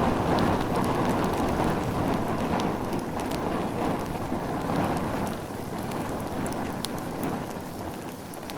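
Bonfire burning: a dense, steady rush of flames with scattered sharp crackles and pops, slowly growing quieter.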